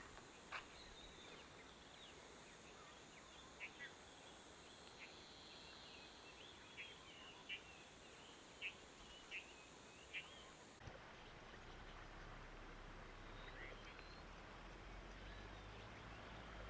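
Faint birds chirping: scattered short, sharp chirps over a thin, steady high-pitched hum. The hum cuts off suddenly about eleven seconds in, and a faint low rumble takes over.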